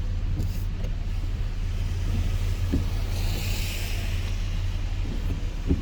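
Truck driving on a rain-soaked road heard from inside the cab: a steady low rumble of engine and tyres, with a brief rush of tyre spray hissing up about three seconds in and a few light knocks.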